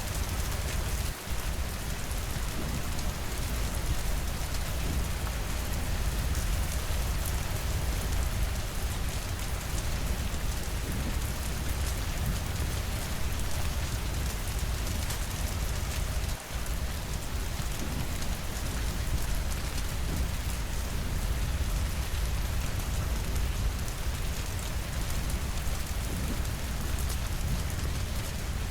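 Steady, continuous rainfall with a deep low rumble underneath, briefly dropping in level twice.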